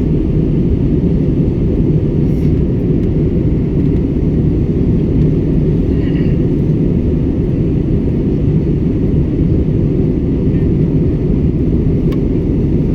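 Steady low rumble of an airliner cabin in flight: engine and airflow noise heard from inside the cabin, even and unchanging.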